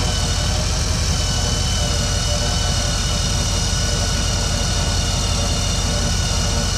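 Steady whine and hiss of a winch pulling a car onto a car-hauling trailer, over the truck's idling engine.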